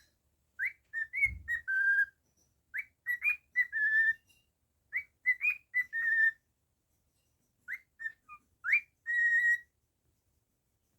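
A cockatiel whistling a tune in four repeated phrases. Each phrase is a few quick upward-swooping notes ending in a held note.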